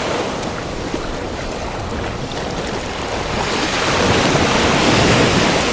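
Ocean surf washing and breaking at the beach, with wind buffeting the microphone; the wash swells louder in the second half.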